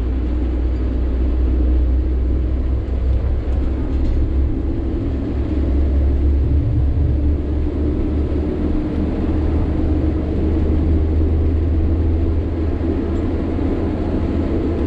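Sany 6x4 dump truck's diesel engine running steadily while driving, a continuous low drone with road noise.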